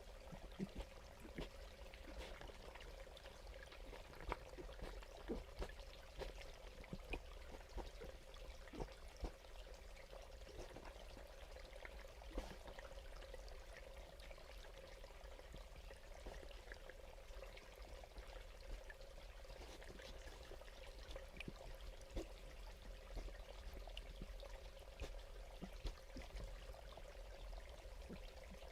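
Faint trickling water, with many small irregular ticks over a steady low hum.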